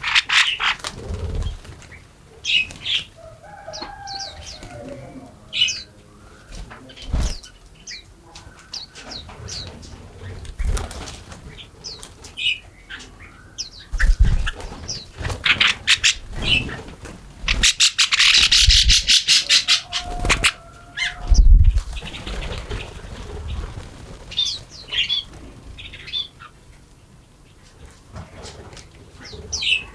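Birds chirping and calling in short high notes, with wing flaps and a few dull low thumps; a little past halfway there is a run of rapid wingbeats lasting about two seconds.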